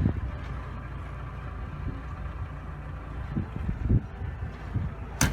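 Car engine running steadily at a low hum, with a few low thumps and a sharp click near the end.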